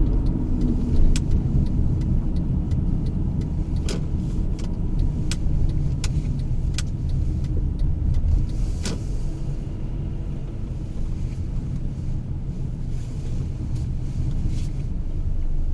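Honda Odyssey driving along: a steady low road and engine rumble, with a few short sharp clicks scattered through the first half.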